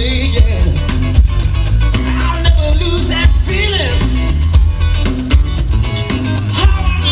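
Live rock band playing with a singer, electric bass and drums loud and steady, the bass and kick drum heavy in the low end.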